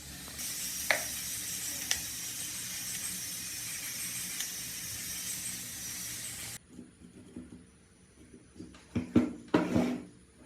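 A steady, high hiss of pressurised spray runs for about six seconds, with a few light clicks, and cuts off suddenly. A few knocks and clatter of parts being handled follow near the end.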